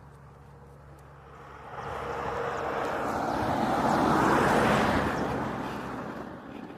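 A vehicle passing by: its noise swells from about two seconds in, peaks a little past the middle and fades away near the end, over a steady low hum.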